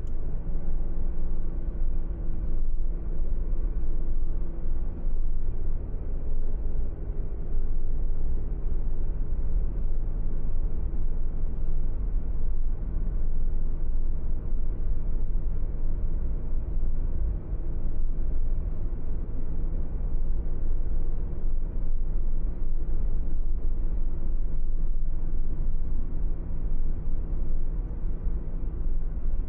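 A car being driven at a steady pace: a low, even rumble of engine and road noise with a steady engine hum.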